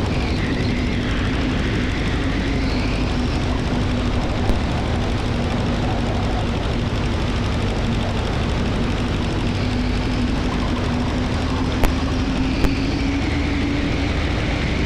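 Aeronca 7AC Champ's engine and propeller running steadily, heard from inside the cabin with the rush of air, the engine note rising slightly near the end; a few faint clicks.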